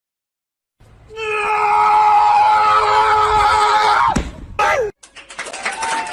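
A long, loud scream held at one steady pitch for about three seconds, dropping sharply at the end, followed by a short falling cry.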